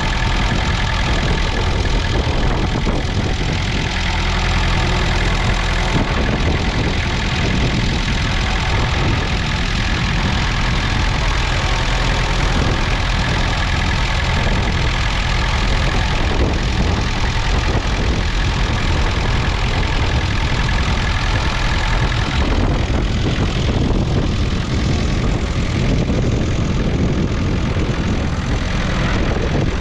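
1.8-litre four-cylinder diesel engine of a 1967 Massey Ferguson 130 tractor running steadily.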